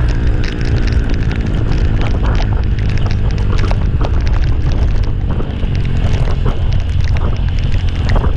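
Wind rumbling and buffeting on the microphone of a moving vehicle, with a low engine drone underneath and frequent crackles.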